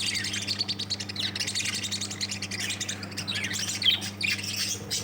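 A group of caged lovebirds chirping continuously, many short high calls overlapping, over a steady low hum.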